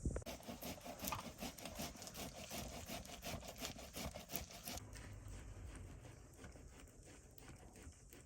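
Rhythmic scraping or rubbing strokes on wood, about three to four a second, dropping fainter after about five seconds.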